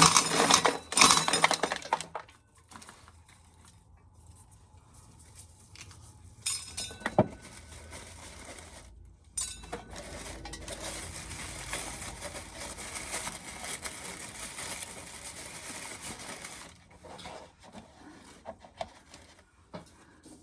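Dry corn kernels clinking and rattling as ears are shelled: a burst of clattering at the start, a sharp click about seven seconds in, then several seconds of steady rattling that stops about three seconds before the end.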